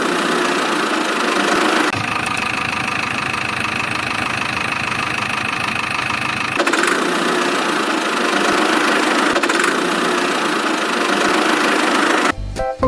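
An engine idling steadily under a loud hiss, in edited segments whose sound changes abruptly about two seconds in and again past the middle.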